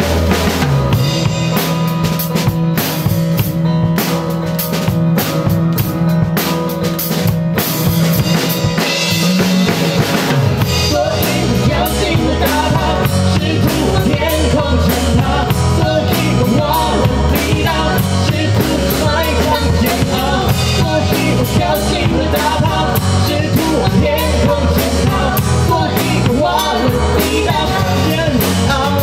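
A live band playing a rock song, with a drum kit and a steady bass line to the fore.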